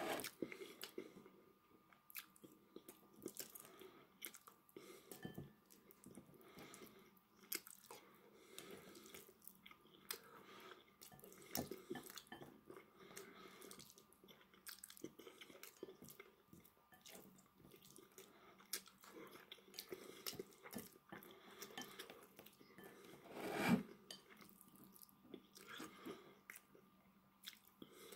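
Close-up eating sounds: chewing a mouthful of rice and meat, with light clicks of wooden chopsticks against a ceramic bowl. One louder brief sound comes a few seconds before the end.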